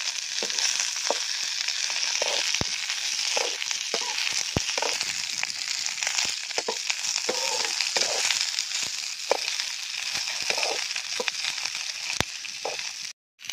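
Okra (lady's finger) pieces sizzling steadily as they fry in oil in a steel kadai over a wood fire. A metal slotted spatula stirs them, scraping and knocking against the pan with frequent sharp clicks. The sound cuts out briefly near the end.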